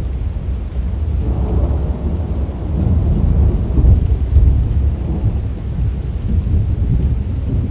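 Rolling thunder: a long, deep rumble that swells about a second and a half in, peaks in the middle and rolls on without a sharp crack, over a faint hiss of rain.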